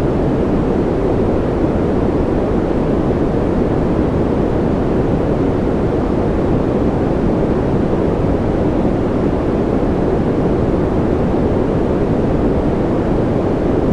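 Steady, unchanging white noise of a sleep-aid track, deep and muffled, with most of its weight low and little hiss at the top; no changes or events.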